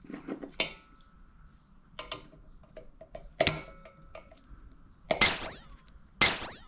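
Small metal compressor parts handled with light clicks, then two sharp metallic strikes with a ringing tail about a second apart, as a part of a pancake air compressor's valve is tapped during disassembly.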